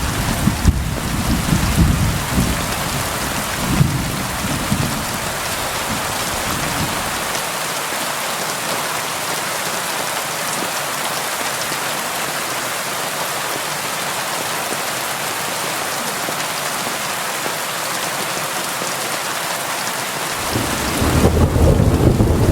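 Steady rain hiss with rolling thunder: a low rumble of thunder dies away over the first few seconds, then the rain goes on alone, and another thunder rumble starts near the end.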